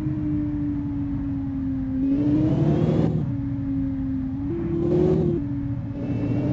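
Sports car engine running at a steady pitch, with two short bursts of acceleration, about two seconds in and again around five seconds in, where it gets louder and rises in pitch.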